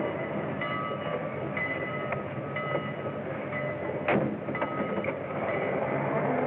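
Train running along the rails with a steady rolling noise and a sharp clank about four seconds in, on an early-1930s film soundtrack with a muffled, narrow sound.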